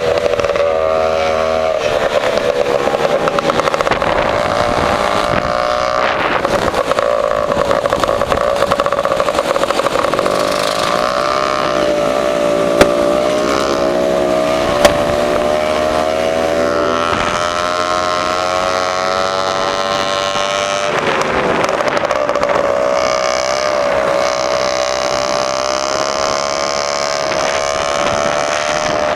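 Lambretta two-stroke scooter with an AF reverse cone exhaust, ridden along with its exhaust note rising and falling several times as the revs change. Two sharp clicks come about two seconds apart near the middle.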